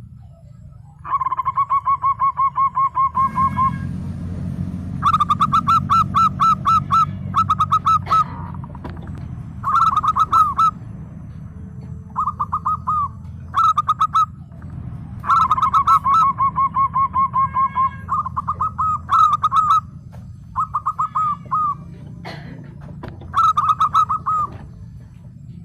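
Zebra dove (perkutut) singing: repeated phrases of rapid staccato cooing notes, about eleven bursts with short pauses between, over a steady low hum.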